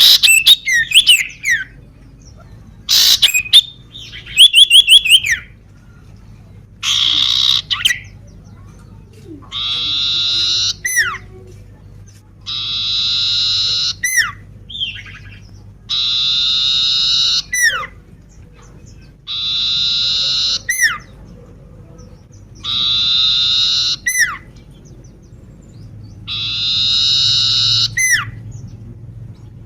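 Common iora singing: sharp chirps and quick trills for the first few seconds, then a harsh buzzy call about a second and a half long, each ending in a quick falling whistle, repeated about every three and a half seconds.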